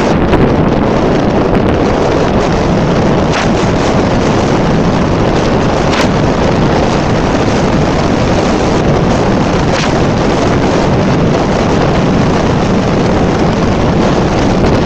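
Heavy, steady wind noise buffeting the camera microphone while riding an electric motorbike at speed, with a few faint ticks.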